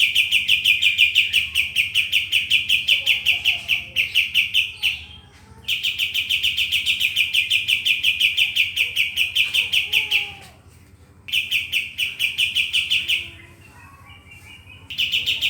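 Yellow-vented bulbul (trucukan) calling in long, rapid trills held at one high pitch. The trill breaks off briefly three times and starts again, with fainter lower chirps in the gaps.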